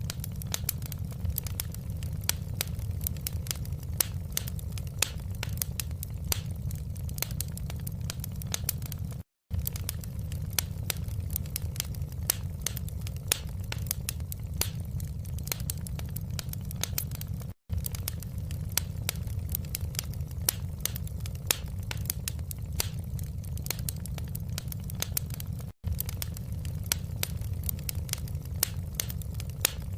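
Wood fire crackling in a fireplace: a dense run of sharp pops and snaps over a steady low rumble. The sound drops out to silence for a split second three times.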